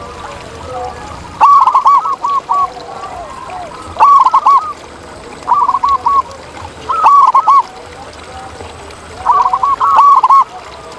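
Zebra doves (perkutut) cooing: five loud bursts of quick, rolling, arched notes, with fainter, lower coos between them.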